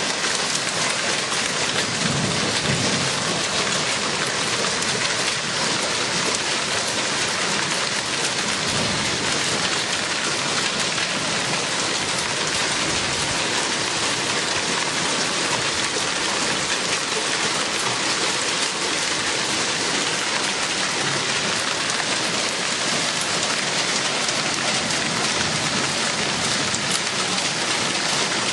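Heavy rain pouring steadily in a thunderstorm, with faint low rumbles of thunder about two seconds in and again about eight seconds in.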